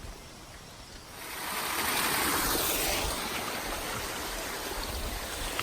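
Rushing water from a waterfall: a steady hiss of falling water that swells up about a second in, then holds.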